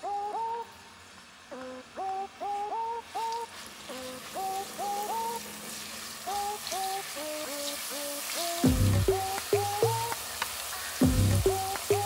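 Vegetables sizzling as they fry in oil in a pan, the sizzle building about three seconds in, under background music with a repeating plucked melody; a deep beat joins the music near the end.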